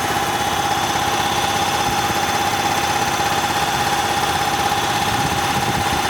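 Bauer 330-bar high-pressure compressor running steadily, with a constant whine over a fast pulsing chug.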